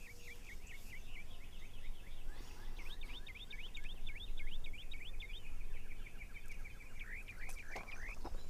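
A rapid series of high chirping bird-call notes, about six a second, with a louder, quicker run in the middle and a few rising notes near the end, over a faint low hum.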